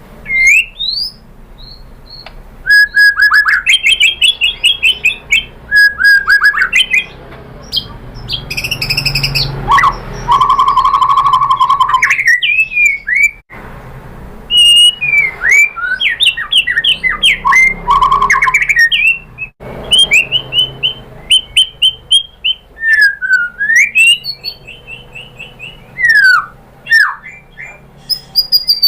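White-rumped shama (murai batu) in full, varied song: loud whistled phrases sliding up and down, rapid trills and chattering ticks, and a held whistle partway through, in bursts with short pauses. This is the kind of song played as a 'pancingan' to trigger other shamas into singing.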